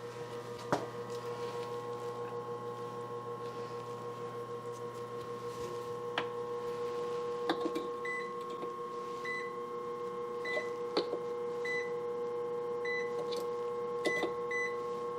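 A steady electrical hum with a few sharp clicks of handling in the machine's control cabinet. In the second half a short, high electronic beep repeats, about once or twice a second.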